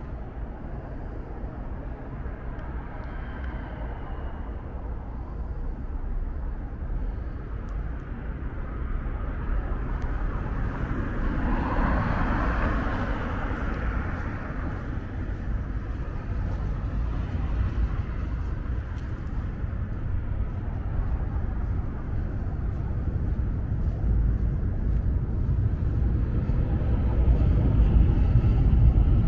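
Outdoor city ambience: a steady low rumble that grows slowly louder, with something passing by about twelve seconds in.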